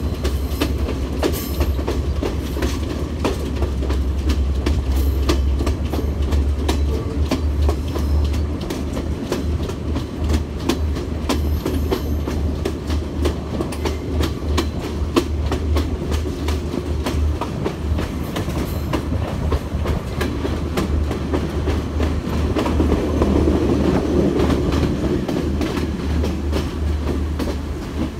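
Passenger train running along the track, heard from aboard: a steady low rumble with frequent clicks and clacks of the wheels over the rail joints, the rumble swelling for a few seconds about two-thirds of the way through.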